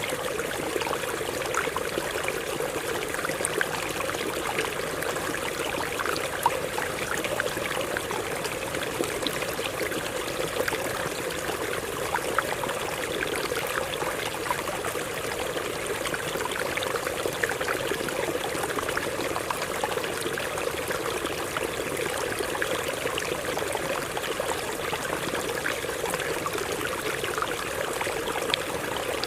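Stream of water flowing over rocks, a steady rush with small splashes and gurgles.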